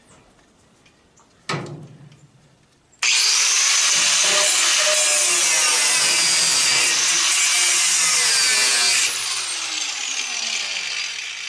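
A single sharp knock, then a high-speed power tool, most likely an angle grinder, switches on abruptly and cuts into the furnace's metal for about six seconds. It then eases off and spins down with a falling whine.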